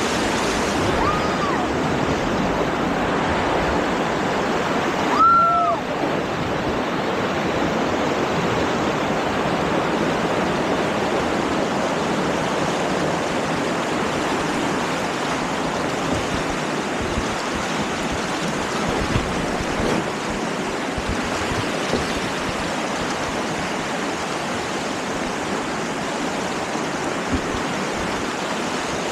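Steady rush of river rapids, white water churning throughout. About five seconds in, a brief high-pitched call rises and falls over it, with a fainter one about a second in.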